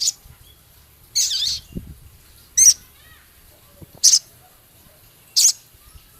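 Male sogon songbird singing: four short, sharp, high-pitched call phrases about a second and a half apart, with quiet gaps between them.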